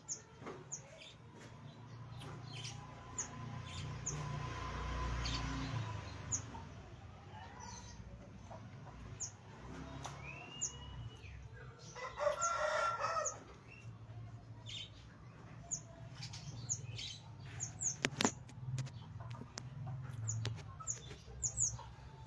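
Aviary birds chirping in short high notes, with wings flapping, and one longer call of a second or so about twelve seconds in.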